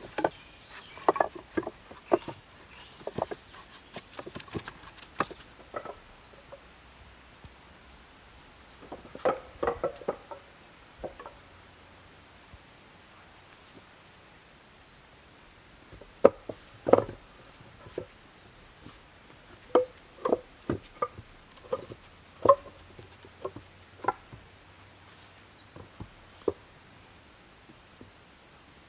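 Irregular knocks and cracks from wood being handled and worked by hand, coming in clusters with pauses, with faint short bird chirps throughout.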